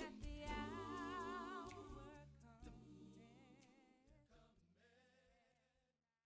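Voices singing a cappella gospel praise with a wavering vibrato, fading out steadily over several seconds to silence near the end.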